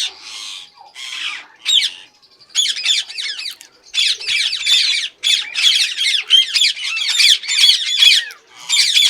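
Indian ringneck parakeets squawking: a rough, hissing call at first, then from about two and a half seconds in a fast run of short, harsh, high-pitched shrieks, several a second, with a brief break near the end.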